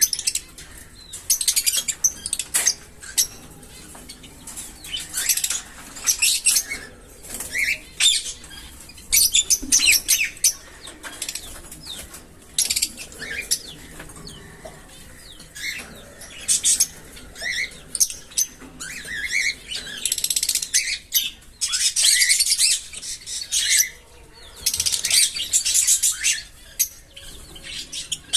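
Small pet parrots chirping and chattering in repeated bursts, with short rising chirps between them.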